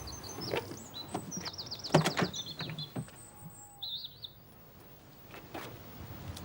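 Small birds chirping and trilling in high, quick runs, busiest about two seconds in, with a few sharp knocks around the same moment.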